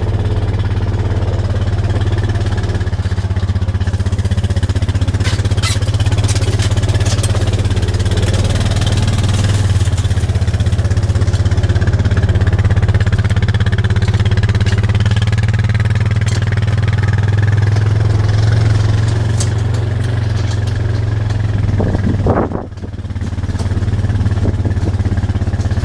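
A vehicle engine running steadily under way, with a deep hum and some rattling; the sound briefly dips near the end before picking back up.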